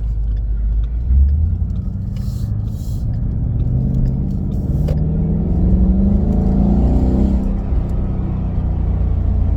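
2017 Mustang GT's 5.0 Coyote V8, heard from inside the cabin through an H-pipe and straight-through resonators in place of the mufflers: a deep, steady exhaust note, then the pitch climbs under acceleration from about four seconds in and drops suddenly at about seven and a half seconds.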